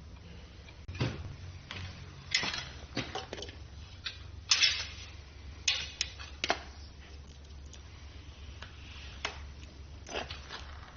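Irregular clinks and knocks of metal tools and engine parts being handled, about eight sharp strikes spaced unevenly, one with a short ring about four and a half seconds in, over a steady low hum.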